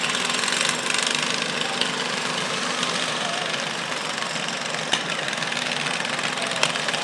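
A garden tractor's small engine running steadily, with people's voices around it.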